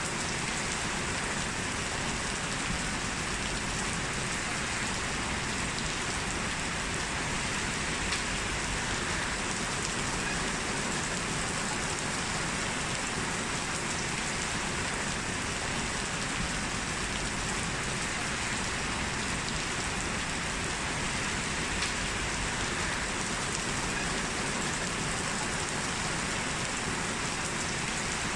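Heavy rain falling steadily, a dense even hiss with occasional faint drop clicks.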